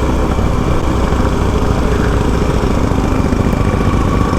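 Yamaha R15 V4's single-cylinder engine running at a steady pace while riding.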